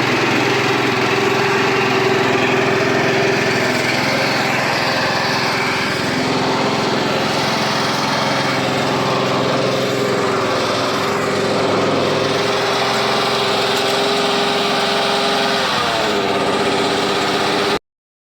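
Honda GX200 single-cylinder four-stroke engine on a ground roller running steadily. About sixteen seconds in its pitch drops and settles lower, and the sound cuts off suddenly near the end.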